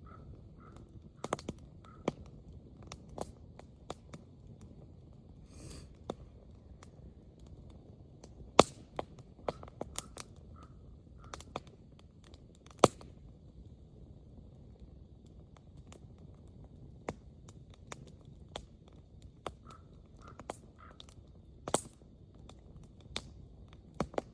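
Wood fire crackling, with irregular sharp pops over a low hiss; two pops about a third and halfway through are much louder than the rest. Faint short bird calls are heard now and then.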